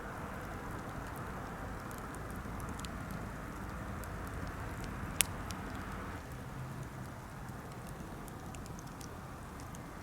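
Birch-wood campfire burning with a steady rushing hiss and scattered small crackles, and one sharp loud pop about five seconds in.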